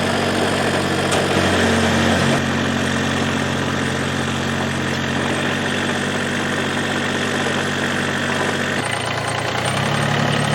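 Massey Ferguson GC2300 sub-compact tractor's diesel engine running steadily, its engine note shifting slightly about two seconds in and dropping lower near the end.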